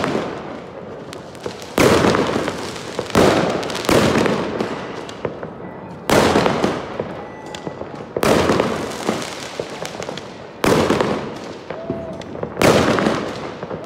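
Fireworks bursting over a city: about seven loud bangs, one every two seconds or so, each followed by a long rolling echo that fades before the next.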